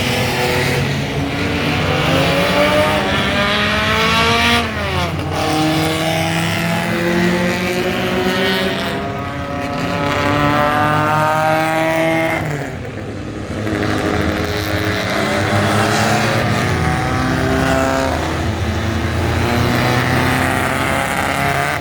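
Race car engines running hard, the pitch climbing steadily and then dropping sharply, more than once.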